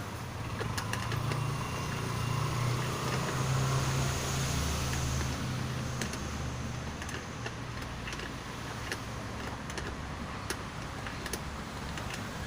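Low engine rumble of a passing motor vehicle, swelling for a few seconds and then easing, with scattered light clicks of metal parts and tools being handled.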